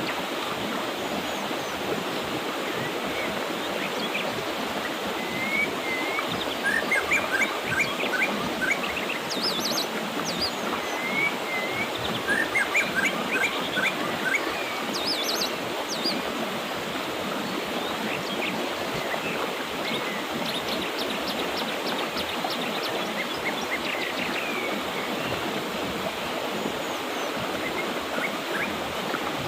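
Mountain river flowing with a steady rush of water, while small birds chirp and trill on and off over it, busiest in the first half.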